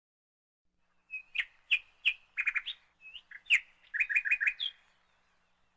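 A small bird chirping: a string of short, high chirps, some in quick runs of three or four, beginning about a second in and ending a little after the middle.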